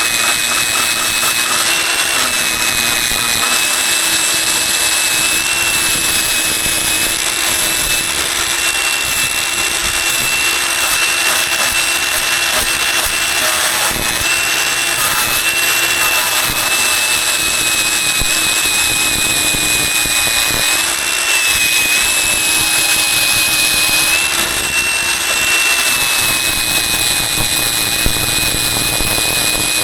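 A power tool running steadily, with a high motor whine that wavers slightly in pitch over a hissing grind.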